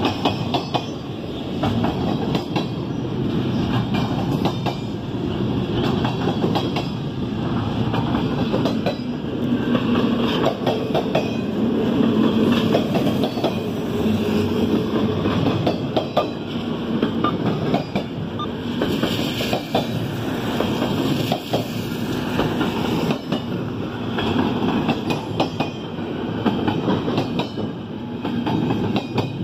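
A CSX intermodal freight train's double-stack container well cars rolling past: a steady rumble of steel wheels on rail, broken by frequent sharp clicks as the wheels cross rail joints.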